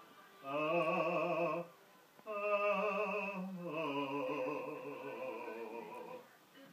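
A person singing in a mock-operatic style, holding three drawn-out notes with a wide vibrato, the last one the longest.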